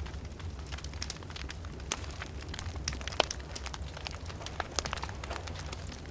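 Wood fire crackling in a fireplace: frequent irregular snaps and pops over a steady low rumble, with one sharper crack about three seconds in.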